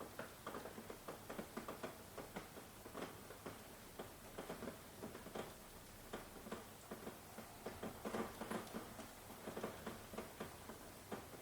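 Rain falling, with many close, irregular drops pattering and tapping over a faint steady hiss.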